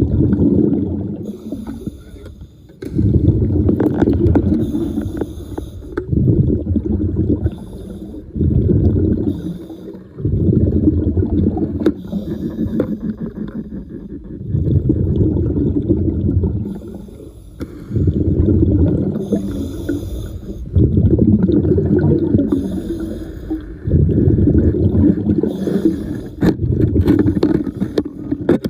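Diver's exhaled air bubbling out underwater in low, rumbling bursts, about one every two to three seconds.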